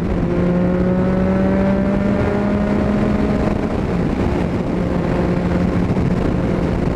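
Yamaha MT-09's three-cylinder engine and exhaust under steady throttle at highway speed. The exhaust note creeps up slightly in pitch, then eases about three and a half seconds in. The rider thinks something has gone wrong with the exhaust, making it louder than usual.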